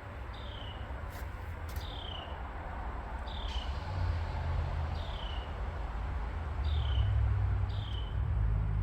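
A bird repeating a short falling chirp about every second and a half, over a steady low rumble. Two light clicks come between one and two seconds in.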